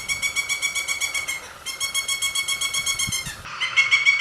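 Woodpecker calling: a rapid series of high notes, about ten a second, in bouts broken by short pauses, a new bout starting near the end.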